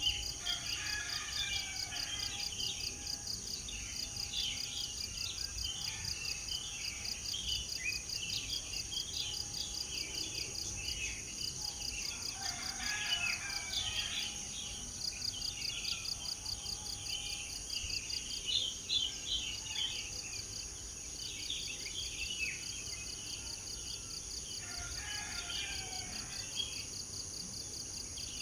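Many birds chirping and calling in short, overlapping bursts over a steady, high insect trill that pulses rapidly, like crickets or cicadas.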